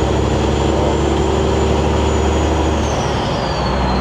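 Semi-truck engine running under way, heard from inside the cab as a steady low drone with a thin high whine. About three seconds in the drone breaks up and the whine falls in pitch, then starts to rise again.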